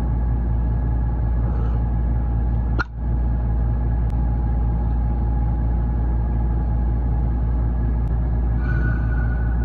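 Steady low machinery drone with faint steady whining tones above it, dropping out briefly about three seconds in.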